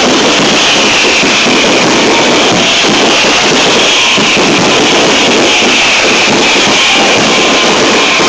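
Loud, continuous barrage of fireworks bursts and crackling, with music playing along with it.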